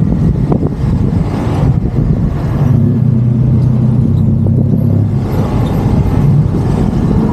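Motorbike engine running steadily under way, with road and traffic noise.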